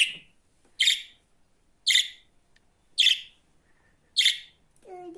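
Budgerigar giving short, sharp chirps, five of them at about one a second.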